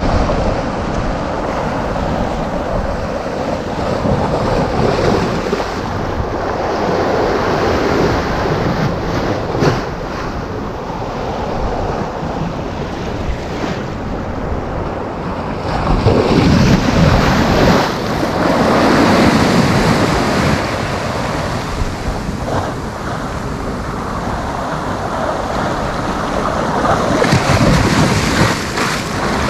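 Sea waves breaking and washing ashore in a continuous surf, swelling louder a little past halfway and again near the end, with wind buffeting the microphone.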